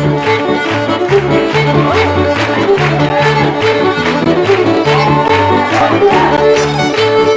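Scottish fiddle and piano accordion playing a brisk traditional reel together, the fiddle carrying a quick run of notes over a stepping bass line.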